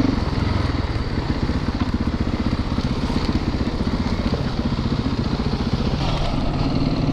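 Dirt bike engine running steadily as the bike rides along the trail, with a rushing noise over it.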